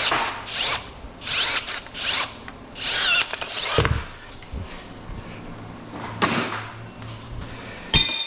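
Power cutting tool whirring in repeated short bursts, each with a rising whine, as it chops thin-walled aluminum walker tubing. The bursts thin out after about four seconds, and there is a sharp knock near the end.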